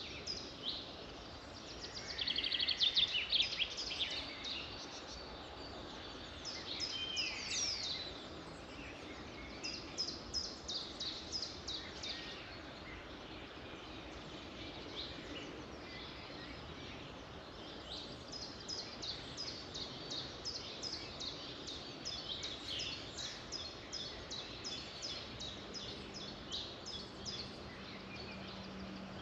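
Several birds singing and calling over a steady background hiss: a loud rapid trill about two seconds in, then series of quick high chirping notes.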